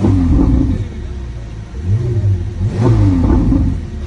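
Ferrari 488 Spider's twin-turbo V8 revved twice through its exhaust, the pitch rising and falling each time. The first blip is short, and a longer one comes about two seconds in.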